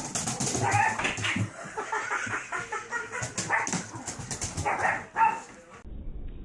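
A dog barking and yelping several times, amid sharp clicks and knocks; the sound cuts off abruptly near the end.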